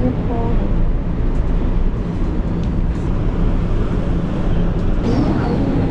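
Steady low rumble and noise inside a moving cable car cabin.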